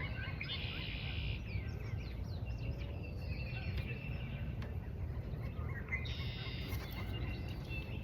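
Birds singing and calling in a marsh: a buzzy trill about half a second in and another after about six seconds, with short quick chirps between them, over a steady low rumble.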